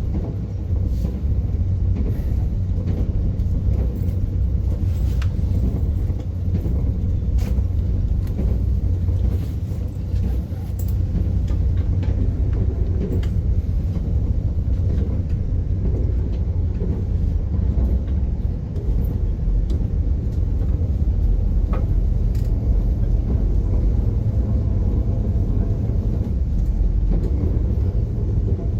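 Moving train heard from inside the carriage: a steady low rumble with occasional faint clicks and knocks.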